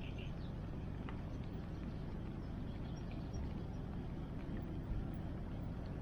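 Wood bonfire crackling with a few faint, sparse pops over a steady low rushing of the river.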